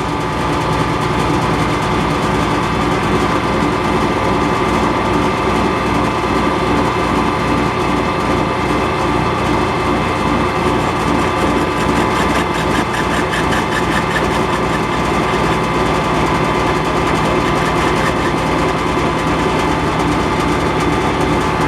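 Metal lathe running at a steady speed, an even mechanical hum with several constant tones.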